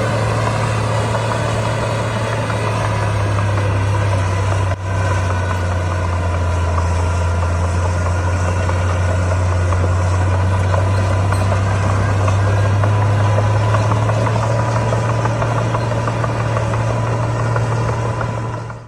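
Heavy diesel engine of earthmoving machinery running steadily with a low drone, with a brief dip about five seconds in.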